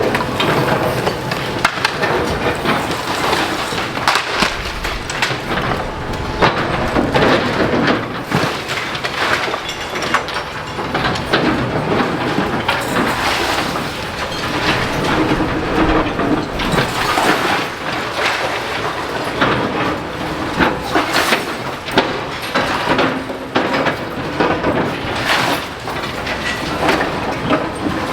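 Demolition excavator tearing down a brick building: continuous clattering and crashing of falling masonry and timber debris, with many sharp knocks throughout.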